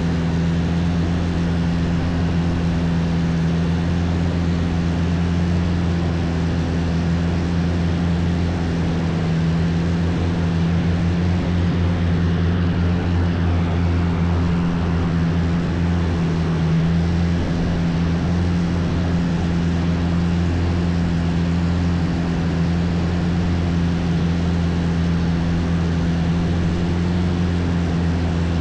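Long-tail boat engine running at a steady cruising speed, a loud, even drone that holds the same pitch throughout.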